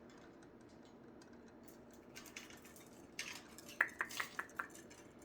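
Light clatter of small food dishes being handled, ending in a quick run of sharp ringing clinks about four seconds in.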